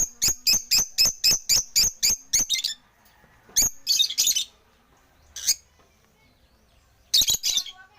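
African lovebirds chirping shrilly: a rapid run of sharp, high chirps, about five a second, for the first two and a half seconds, then a few scattered chirps and a lull of about two seconds before another short burst near the end.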